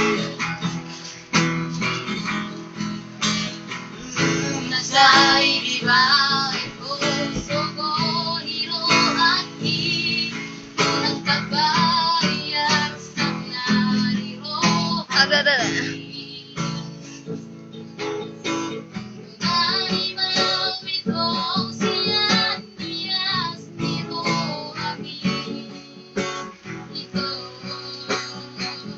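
Acoustic guitar strummed as accompaniment while a high voice sings, with wavering sustained notes.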